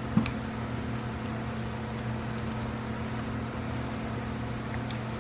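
Steady low background hum with an even hiss, and a single short knock about a fifth of a second in.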